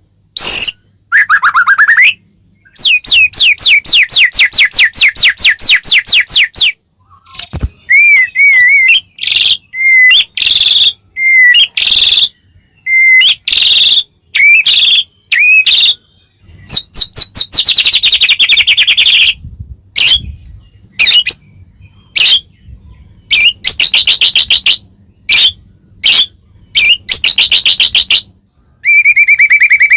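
White-rumped shama (murai batu) song: a loud, varied string of fast rattling trills, repeated chips and looping whistled notes, broken by short pauses between phrases.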